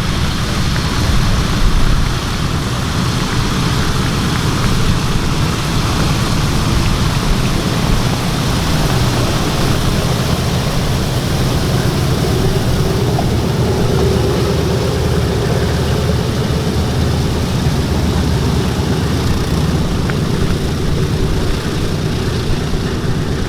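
Boeing B-17G Flying Fortress flying past under power, its four Wright Cyclone radial piston engines droning steadily, with a higher note coming up about halfway through.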